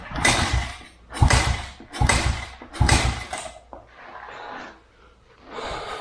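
Kawasaki KLX110 pit bike's 110cc four-stroke single being kicked over four times in quick succession, firing briefly on carb cleaner without staying running, followed by two weaker tries.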